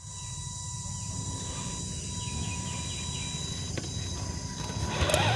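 Outdoor ambient noise: a steady low rumble with a few faint chirps, ending in a brief rising whoosh near the end.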